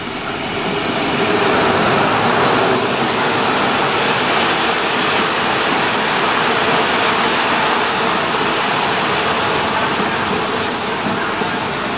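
A Thai State Railway diesel locomotive hauling a passenger train runs in past the platform, followed by its coaches rolling by on the rails. The noise grows over the first two seconds as the locomotive comes alongside, then holds steady as the coaches pass.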